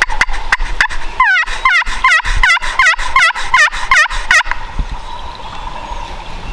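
Turkey yelping: a run of about nine notes, each falling in pitch, about three a second, that stops about four and a half seconds in. It is preceded by a few short, sharp clucks.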